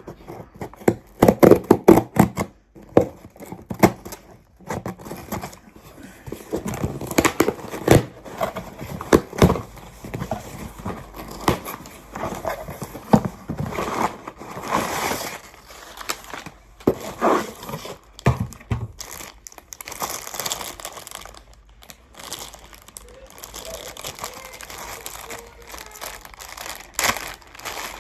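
Parcel packaging being opened by hand: plastic wrapping crinkling and tearing, with irregular rustles, scrapes and small knocks as the contents are handled.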